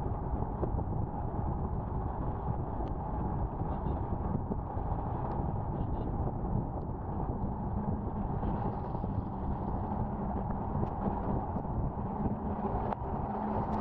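Honda Activa scooter on the move: steady wind rush on the microphone over road and engine noise. About eight seconds in, a low steady engine hum comes up and grows stronger toward the end.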